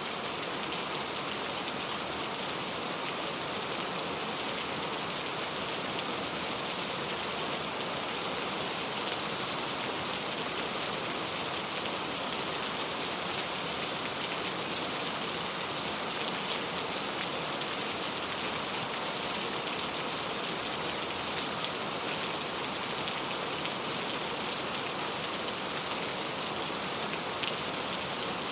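Steady rainfall, a constant even hiss with a few separate drop ticks heard now and then.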